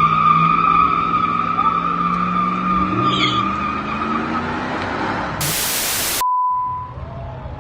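Car engine held at high revs with tyres squealing in a burnout, fading out after about four seconds. About five and a half seconds in, a short burst of loud hiss cuts off abruptly into a brief steady beep, followed by quieter background.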